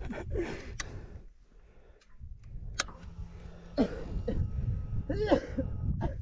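Hero Xpulse motorcycle engine running low and uneven at low revs, with a couple of sharp clicks. A short cough-like vocal sound comes about five seconds in.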